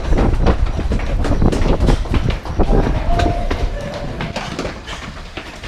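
Several people running, with quick irregular footfalls and scuffling knocks over a heavy low rumble.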